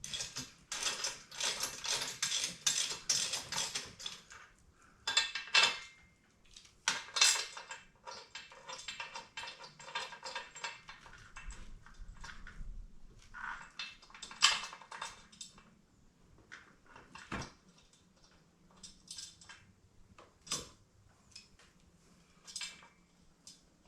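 Hand tools and steel transmission-jack parts clinking and rattling, with a fast run of clicking for the first four seconds and scattered sharp metal clinks after.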